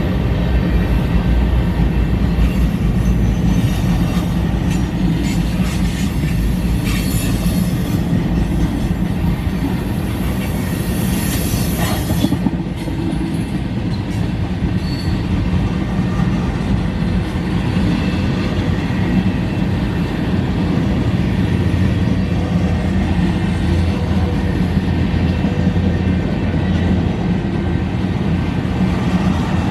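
Freight cars of a mixed freight train rolling past, their steel wheels making a steady rumble on the rails. A high-pitched wheel squeal rises over it from about seven seconds in and cuts off at about twelve seconds.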